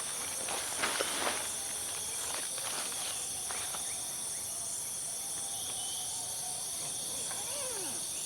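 Steady high-pitched chorus of crickets and other night insects, with a few short knocks or rustles in the first few seconds and a faint wavering call near the end.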